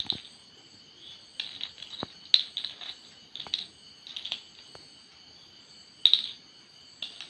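A parrot making short, scratchy high-pitched chirps and clicks at irregular intervals, over a faint steady high hum.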